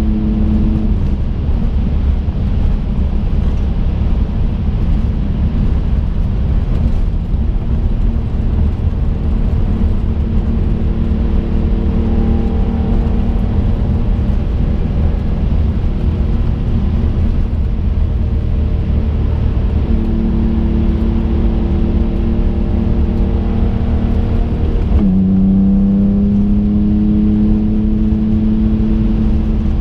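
Twin-turbo V6 of a 2005 Infiniti G35 coupe heard from inside the cabin while driving, its note steady over a constant low road rumble. About 25 seconds in, the engine pitch drops suddenly and then climbs again, as with a gear change followed by acceleration.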